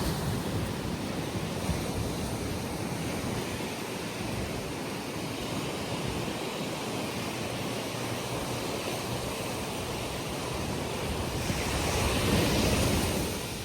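Small sea waves breaking and washing up the beach in a steady rush, with some wind on the microphone; one wave swells louder near the end.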